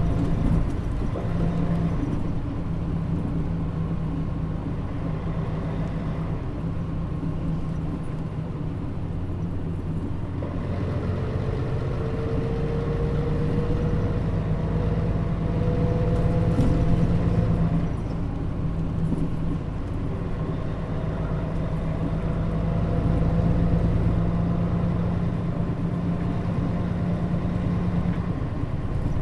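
Mitsubishi Fuso Aero Star (KL-MP35JM) diesel city bus running along the road, heard from inside the cabin: a steady engine drone and road rumble, with the engine note changing a few times as the bus changes speed.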